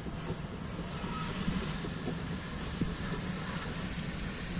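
Freight train of open coal wagons behind an ET22 electric locomotive rolling past, a steady rumble of wheels on rail with a few short clicks.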